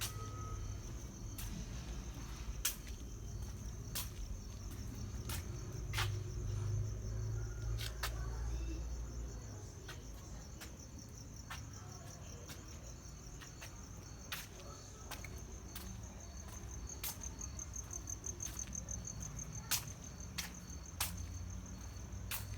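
Crickets chirping, a steady high trill that pulses, with sharp clicks every second or two and a low rumble during the first half.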